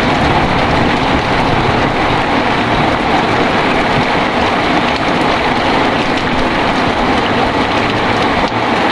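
Heavy rain falling steadily, with a low rumble underneath that eases off near the end.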